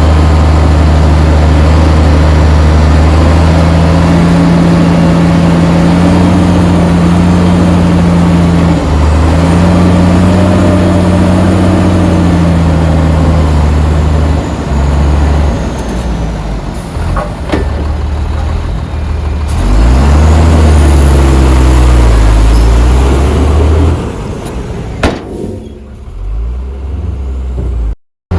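Heavy diesel engine of earthmoving machinery running loud and revving up and down several times as it works. It eases off about halfway through, revs up again with a rising and falling pitch, then drops away and cuts out briefly near the end, with a couple of sharp clicks along the way.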